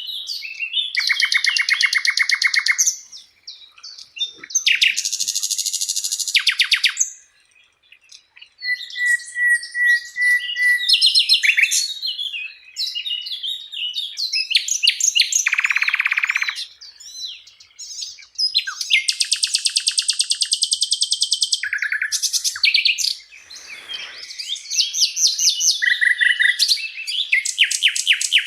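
Sikatan londo songbird singing: a loud, varied song of rapid trills and buzzy chattering phrases, each two to three seconds long with short pauses between, and one steady whistled note about a third of the way through.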